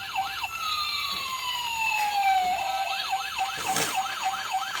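Electronic siren of a battery-operated toy police car: a fast yelp that rises and falls about four times a second, breaking about half a second in into one long falling wail before the yelp comes back. A single knock about four seconds in.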